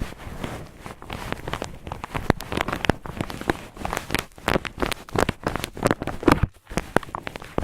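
Cotton ball rubbed and scrunched against a microphone, making dense, rough crackling rustles, with a brief pause about six and a half seconds in.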